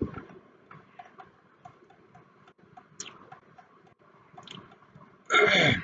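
Computer mouse scroll wheel and buttons ticking and clicking, a run of faint ticks about four a second with a few sharper clicks. Near the end comes a brief loud vocal sound with a falling pitch.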